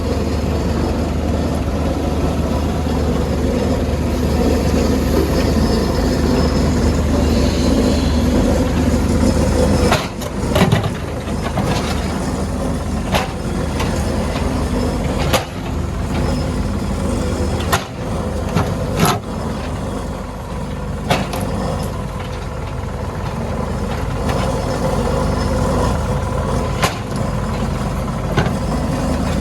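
Diesel engine of a CAT 462F backhoe loader running steadily under work. From about ten seconds in, sharp knocks and clanks come every couple of seconds.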